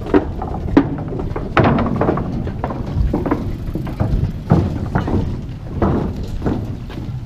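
Irregular knocks and thumps, several a second at times, over a steady low rumble.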